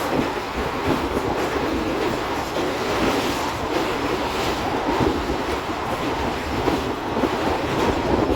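Running noise of a moving train: wheels on the rails, a steady rumble with faint clatter.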